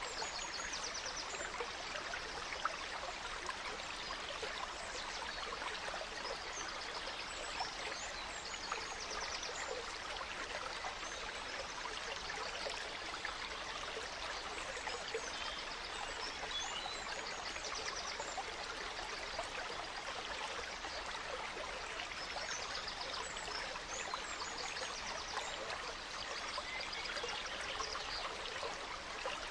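A gently flowing stream, with forest birds calling and trilling over it, many short high chirps and quick repeated trills throughout.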